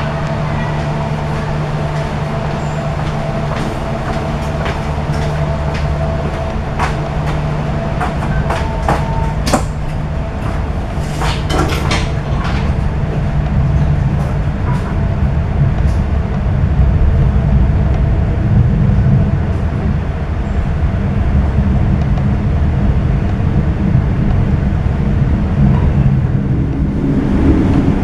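Passenger train running on the rails: a steady low rumble of wheels and carriage, with a run of sharp clicks and rattles in the first half, getting somewhat louder in the second half.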